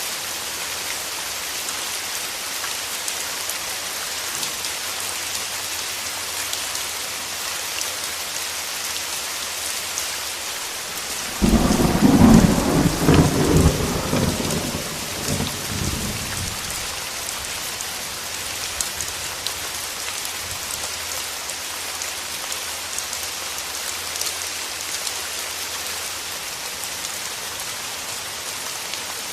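Steady rain falling, with a sharp clap of thunder about a third of the way in that rumbles and fades away over several seconds.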